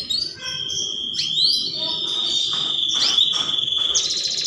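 Canary singing: long held high whistled notes and quick rising glides, breaking into a fast rattling trill near the end.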